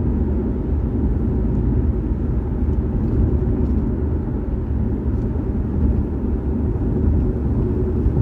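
Car driving at a steady pace: a constant low rumble of road and tyre noise on a wet road, with a few faint ticks now and then.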